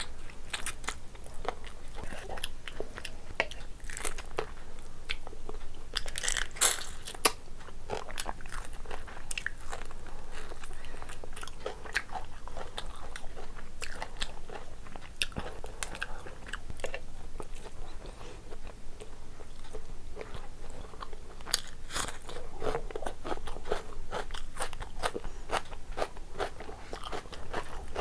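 Close-miked eating sounds: wet chewing, sucking and lip-smacking of spicy seafood curry with rice. It is a steady run of short clicks and smacks, with a few louder ones about six to seven seconds in and again about twenty-two seconds in.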